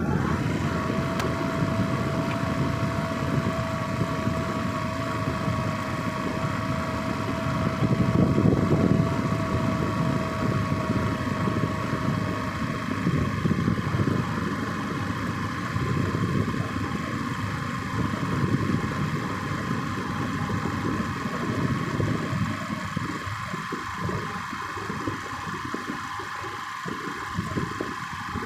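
A vehicle running while riding, with a steady low rumble. Over it are two steady high-pitched tones; the lower one fades out about twelve seconds in and the higher one lingers faintly.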